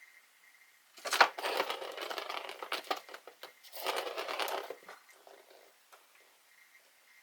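Crinkling and rustling, like paper or plastic being handled, in two stretches of a few seconds, starting with a sharp click about a second in.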